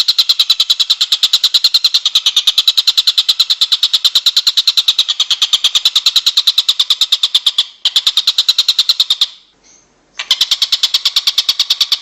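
Songbird recording played as masteran: a loud, high trill of rapid notes repeated evenly, about six a second. It breaks off briefly twice, for a moment and then for about a second, before resuming.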